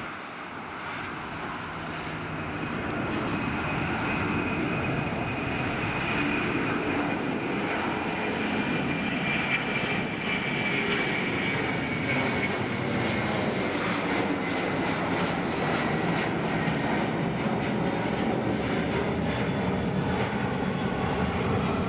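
Airbus A330-200 twin jet engines, growing louder over the first few seconds and then holding a steady roar, with a high whine that slowly falls in pitch.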